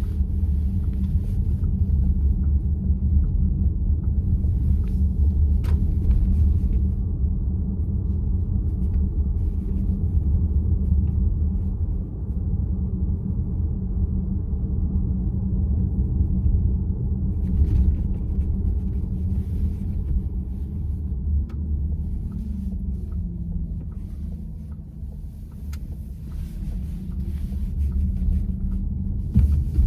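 Cabin noise inside a VW ID.4 electric car on the move: a steady low road and tyre rumble with small faint clicks scattered through it.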